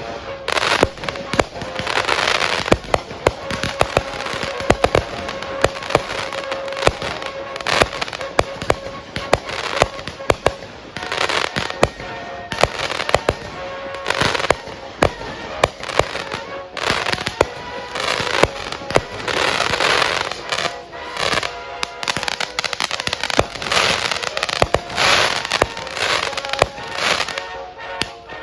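Consumer aerial fireworks going off in rapid succession: a dense run of sharp bangs, several a second, with swells of crackling between them.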